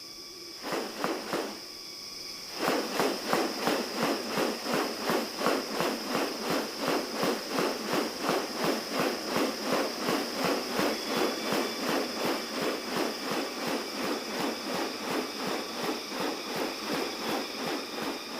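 Rainforest insects: a steady high buzz throughout, joined about two and a half seconds in by a rapid pulsing chorus of several even pulses a second.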